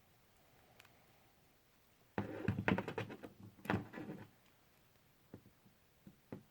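Clicks and clatter of small parts and tools being handled while an RC helicopter's tail case is taken apart, a dense run of sharp knocks about two seconds in lasting about two seconds, then a few faint ticks.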